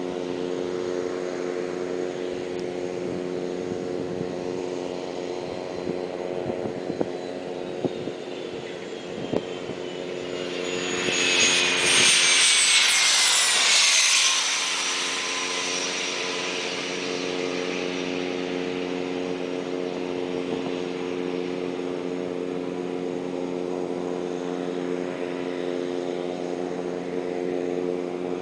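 Cessna Citation Mustang business jet's twin turbofan engines whining as it comes in to land and passes close by. The whine swells to its loudest about halfway through and drops in pitch as the jet goes past. A steady low hum runs underneath throughout.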